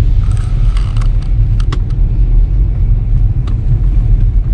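Steady low rumble of a car's road and engine noise, heard from inside the cabin while driving, with a few faint clicks.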